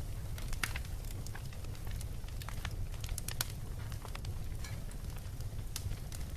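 Wood bonfire crackling, with irregular sharp pops scattered through it, over a steady low rumble.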